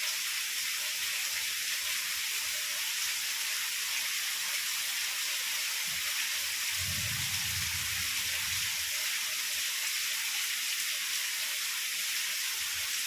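Heavy rain falling as a steady, even hiss. Near the middle, a low rumble of distant thunder lasts about two seconds.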